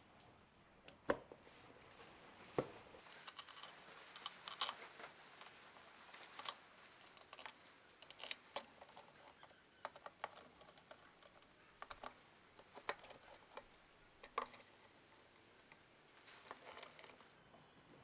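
Irregular light clicks and taps of small metal parts and hand tools being handled, with two sharper knocks near the start.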